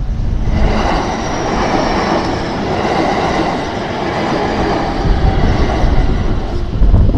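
A JR West 225 series electric train passes over the level crossing. Its wheels on the rails make a steady rush with faint high tones above it. The sound builds about half a second in and falls away near the end.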